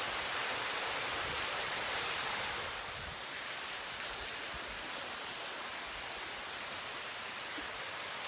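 Water falling steadily from a limestone cave's ceiling into the cave, a dense rain-like hiss of many drops and trickles. It eases a little about three seconds in.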